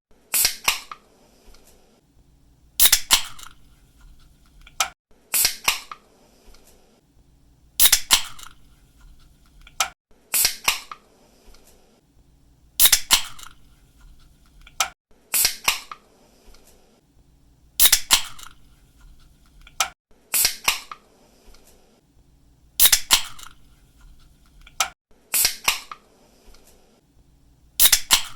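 Aluminium drink can's pull-tab snapping open: a sharp pop followed by a short hiss of escaping gas. It repeats about every two and a half seconds, around eleven times, each preceded by a faint click of the tab.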